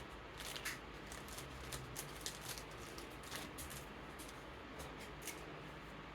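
Cards being slid into plastic card sleeves: a string of light, irregular plastic rustles and clicks, over the steady hiss of an electric fan.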